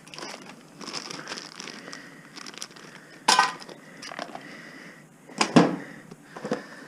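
Household clutter being rummaged through and handled: rustling and light clatter, with two sharp knocks about three and five and a half seconds in.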